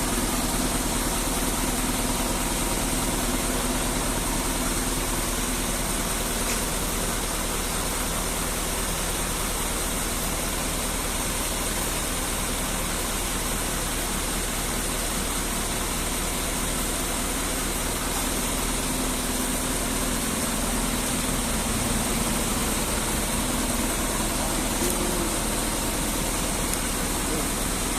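Truck engine idling steadily, a constant low hum under an even mechanical noise.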